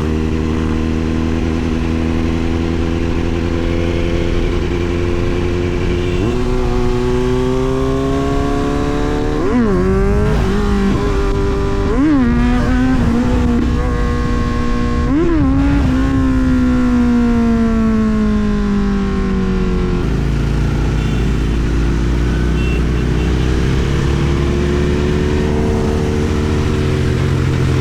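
Kawasaki Z900's inline-four engine through an SC Project aftermarket exhaust, ridden on the road: steady at first, then revving up, with quick breaks in pitch around the gear changes between about ten and fifteen seconds in. The revs then fall away smoothly as the bike rolls off, and pick up slightly again near the end.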